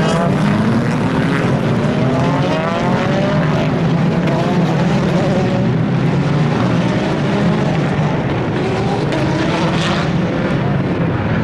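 Endurance race cars running on the circuit, several engines overlapping, their pitch rising again and again as they accelerate through the gears.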